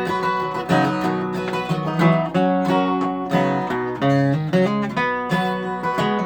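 Acoustic guitar strummed and picked in a country-style instrumental break, with a steady rhythm.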